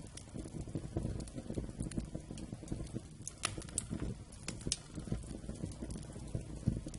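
Wood campfire burning with a steady low crackle and several sharp pops, a few of them between about three and a half and five seconds in.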